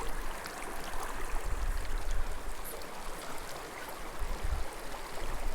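Small mountain creek running over rocks: a steady rush of water, with an uneven low rumble underneath.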